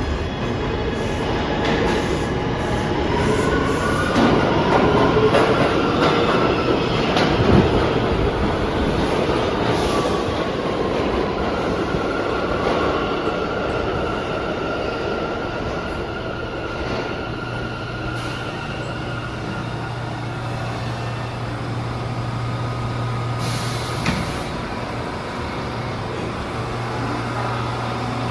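New York City subway train in an underground station: wheel and track rumble with some wheel squeal, and a whine that slides in pitch over the first several seconds, then a steadier low hum.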